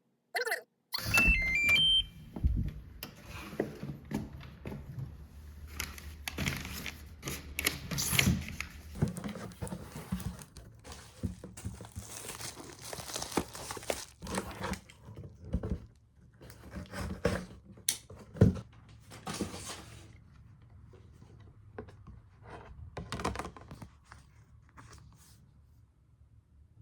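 A short series of electronic beeps stepping in pitch, then objects being handled: scattered knocks, clatter and rustling, fading away near the end.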